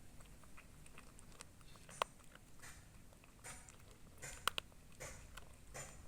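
A cat chewing food, with irregular short crunches about once a second and a couple of sharp clicks.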